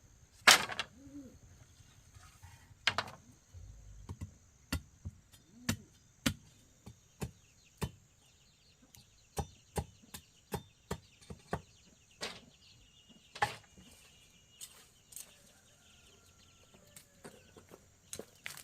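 Sharp knocks and taps at an uneven pace, about one a second, from hand work on a chicken coop, with a few short clucks from the hens in the first few seconds and a faint steady high tone behind.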